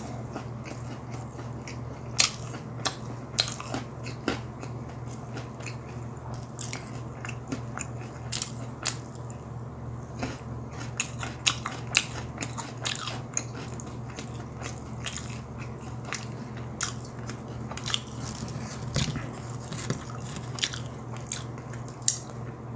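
Close-miked chewing of crispy BHC Bburinkle boneless fried chicken: wet mouth sounds with many small, irregular crunches and clicks, over a steady low hum.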